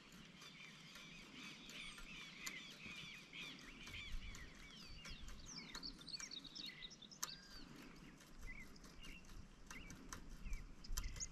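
Birds chirping and calling faintly, many quick short notes overlapping, with a few small clicks among them.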